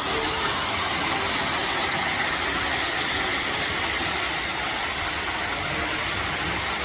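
O scale model trains running on the layout: a steady rumble of motors and wheels on track.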